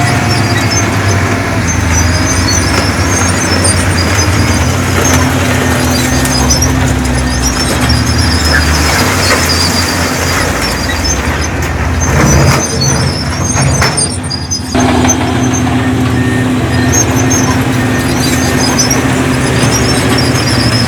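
Heavy diesel engine of earthmoving machinery running steadily under work. A little past the middle the sound wavers and dips briefly before settling back.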